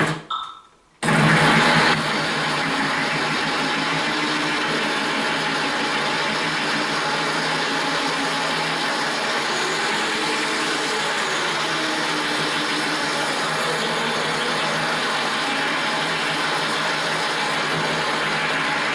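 Corded drill running at low speed with a diamond-coated bit grinding a hole into wet porcelain tile, a steady grinding whir. It starts about a second in, a little louder for its first second, then holds steady.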